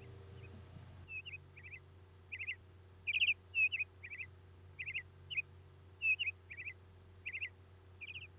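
A songbird chirping: short, quick calls, each a tight cluster of high notes, repeated about twice a second from about a second in, over a low steady hum.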